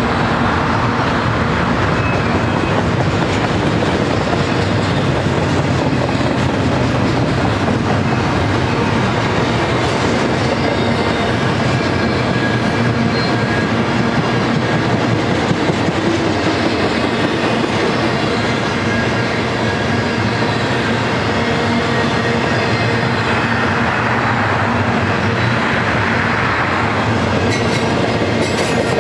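A BNSF double-stack container train's loaded well cars rolling past close by: the steady noise of steel wheels running over the rail, keeping up without a break.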